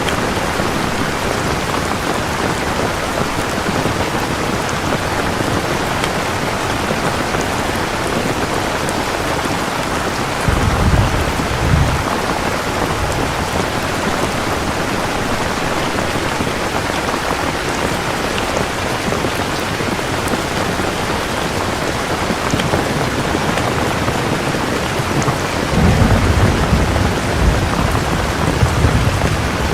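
Steady heavy rain with rolls of thunder: a short low rumble about ten seconds in, and a longer one starting a few seconds before the end.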